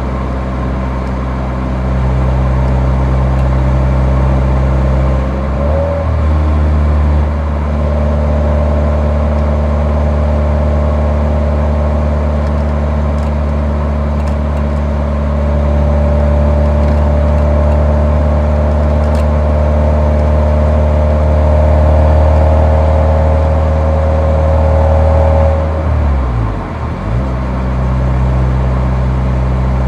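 Nissan 180SX's exhaust recorded at the muffler while driving: a steady engine drone at cruising revs, rising slowly, broken by a brief dip in the note about 6 seconds in and again near the end as gears are changed.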